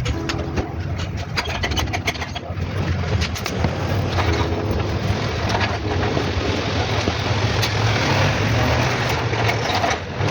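Four-cylinder car engine running steadily with a low hum, a few light clicks over it in the first seconds, growing louder a few seconds in.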